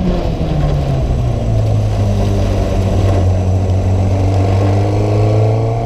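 Competition car engine coming off the throttle in the first second, its pitch dropping, then running steadily at low revs as the car rolls slowly, with the revs creeping up gently near the end.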